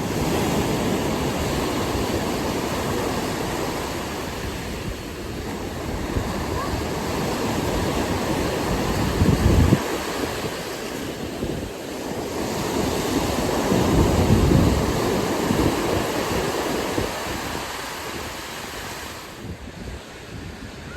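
Ocean surf washing in steadily, with wind buffeting the microphone and swelling in gusts about halfway through and again a few seconds later.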